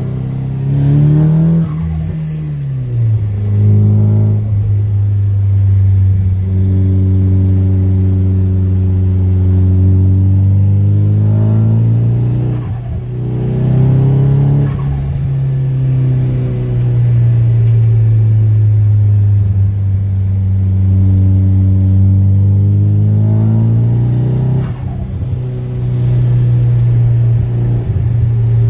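Turbocharged SR20DET four-cylinder engine of a Nissan S15 Silvia driving under load, its pitch rising and falling slowly with the revs. There are two brief drops in loudness about 12 and 25 seconds in.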